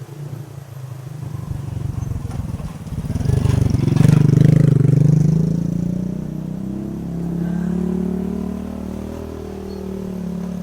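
Motorcycle engine speeding up and getting louder, at its loudest about four seconds in, then running on at a steady pace with small rises and falls in pitch.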